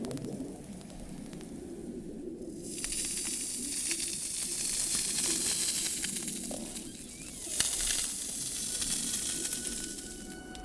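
Underwater recording of killer whales rubbing their bodies against a bed of pebbles: a crackling hiss of stones scraping and clicking against each other over a low rumble. The hiss comes in about three seconds in, drops away briefly, returns and fades near the end.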